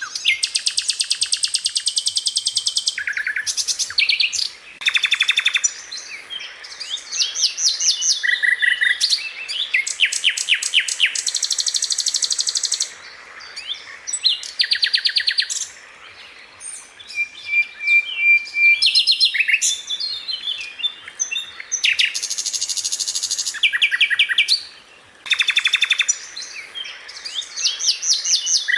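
Sikatan londo flycatcher singing in repeated bursts: fast rattling trills a second or more long alternate with short, sharp high notes, with brief pauses between phrases.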